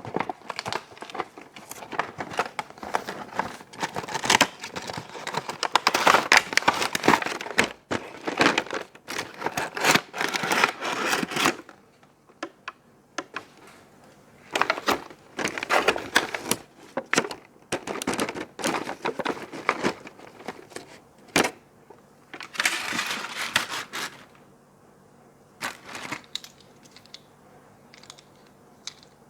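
Toy packaging being handled and opened: dense crinkling and tearing for about the first twelve seconds, then scattered rustles and taps with quiet gaps over a faint steady hum.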